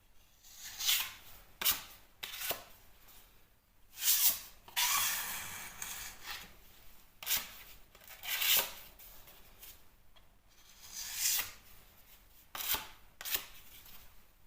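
Irregular rubbing and scraping strokes of a hand tool over dried filler on plasterboard, about a dozen short strokes and one longer one a third of the way in.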